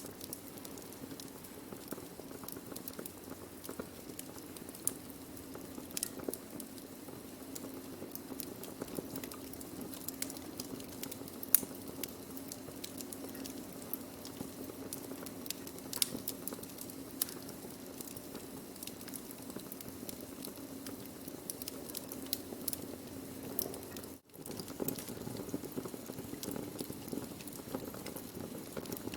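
Wood fire burning: a steady low hiss with constant small crackles and scattered sharp pops, the loudest pop about 11 seconds in. The sound drops out for a moment about 24 seconds in.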